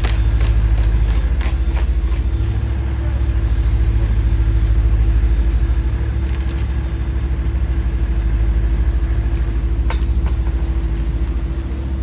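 Heavy road-paving machinery running steadily with a deep low rumble and a faint constant hum, with a few light clicks, the sharpest about ten seconds in.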